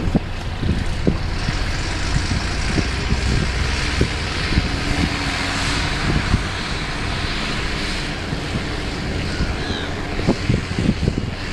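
Large farm tractor's diesel engine running steadily outdoors, with scattered short clunks and rattles over its rumble.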